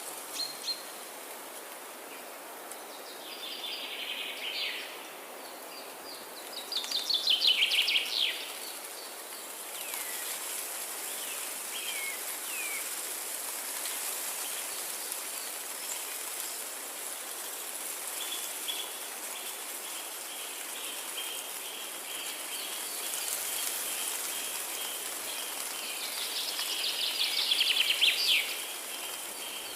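Forest ambience: a steady hiss under a songbird singing short, rapid trilled phrases, the loudest about a quarter of the way in and again near the end, with a few single chirps in between.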